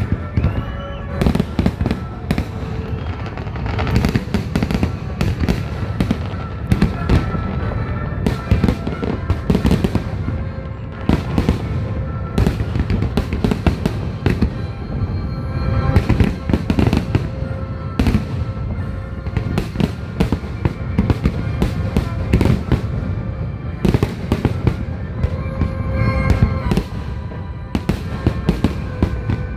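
Fireworks finale: a dense, continuous run of booms and crackling bangs, several a second, with music playing underneath.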